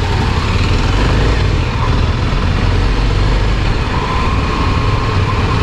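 Kawasaki Ninja motorcycle engine running while the bike is ridden, a steady low rumble under an even rush of noise.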